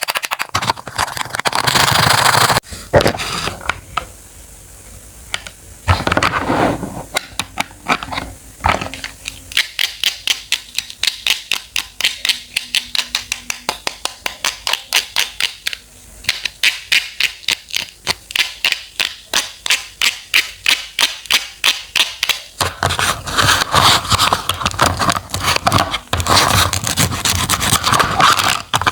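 Kitchen knife cutting fresh fruit and vegetables on a cutting board: crisp slicing and crunching, with a long middle run of rapid, even chops at about four or five a second.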